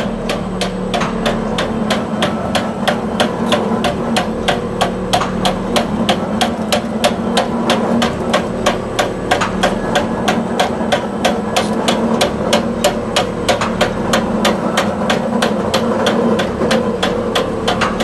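Glass mosaic machine running, striking in a rapid, even rhythm of sharp clacks, about four to five a second, over a steady machine hum.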